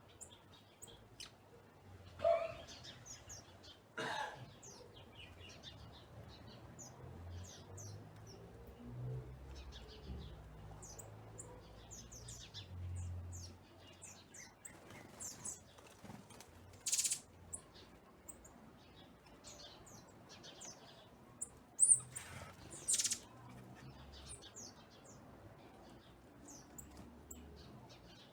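Backyard songbirds chirping and calling: many short, high notes scattered throughout, with a few louder calls standing out.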